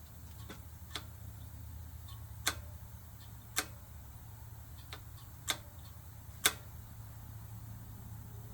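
Sharp metal clicks and taps from hand tools working the e-bike's disc brake caliper bolts, coming at uneven intervals with four louder ones, over a steady low hum.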